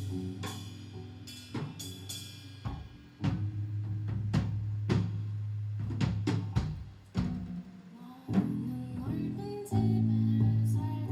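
Live band playing an instrumental passage: drum hits and cymbal crashes over sustained bass notes.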